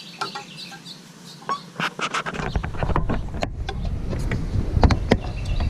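Wind starts buffeting the GoPro's microphone about two seconds in, a low rumble under a run of sharp clicks and taps. Faint bird chirps come before the wind.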